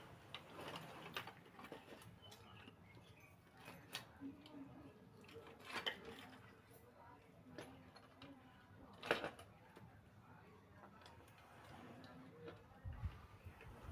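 Faint, scattered clicks and light metallic clinks of tools and bicycle parts being handled, with a sharper knock about nine seconds in.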